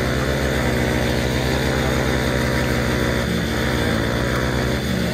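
Two Hero Splendor single-cylinder motorcycle engines running hard at steady high revs, pulling against each other under full load while a rear tyre spins and kicks up dirt.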